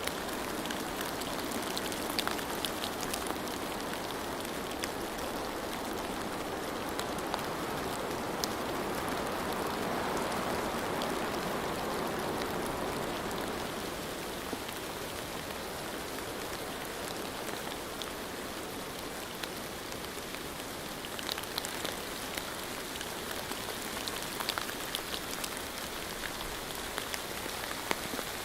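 Steady rain falling, an even hiss with many small drop ticks scattered through it, swelling slightly a third of the way in.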